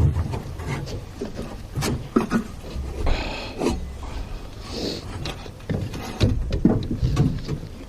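Hands-on work with tools and metal parts: irregular knocks and clinks with a few short scrapes, over a low rumble.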